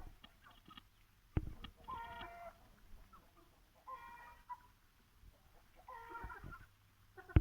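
Aseel chickens calling: four short pitched calls, about one every two seconds, with a sharp knock about a second and a half in.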